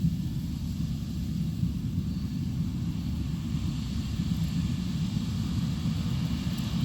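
A Case IH combine's engine and threshing machinery run with a steady low rumble as it harvests field corn.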